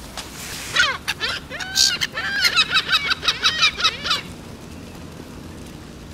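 Birds calling: a rapid run of harsh, repeated calls starting about a second in and lasting about three seconds, over a steady outdoor hiss.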